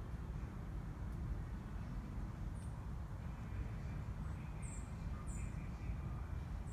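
A steady low rumble with a few short, high chirps from a small bird over it, about four of them in the second half.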